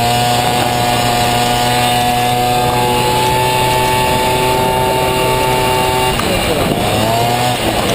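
Honda Motocompo scooter's two-stroke Honda Dio 50cc engine running at high revs, its pitch holding high and creeping up. About six seconds in the revs fall away, then they climb again near the end.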